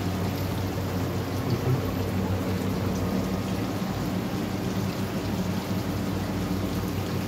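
Mutton, onions and spices sizzling in an open pressure cooker, a steady frying hiss over the low hum of the electric cooktop.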